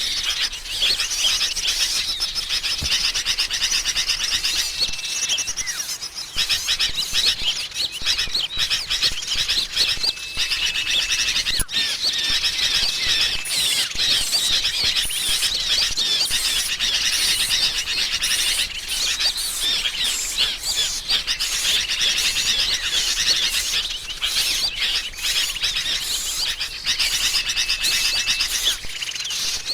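Bird-lure recording of a noisy flock of sooty-headed bulbuls (kutilang) in agitated chatter, mixed with other small songbirds. The quick chirps overlap densely without a break. Short, steady whistled notes stand out now and then.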